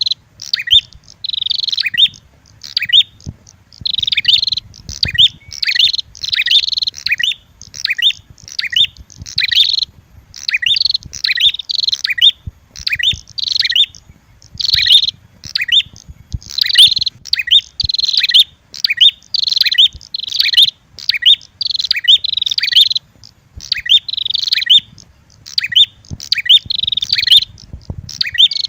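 Prenjak lure recording: a red-headed prenjak combined with a female prenjak's fighting call, chirping loudly and rapidly in short, sharp phrases repeated about once or twice a second without a break.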